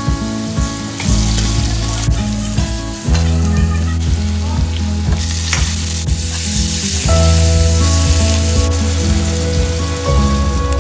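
Potatoes and onions frying in hot oil in a pan, a steady sizzle that grows louder about halfway through.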